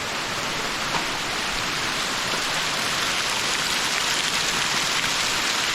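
Snowmelt runoff falling and dripping inside a railway tunnel: a steady, rain-like patter of water.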